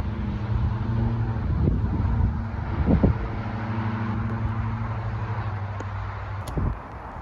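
An engine running with a steady low hum that fades near the end, with a few short low thumps on top.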